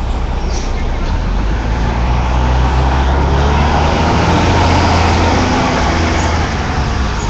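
Street traffic: a motor vehicle's engine running close by with a low hum over road noise, growing louder through the middle and easing off near the end.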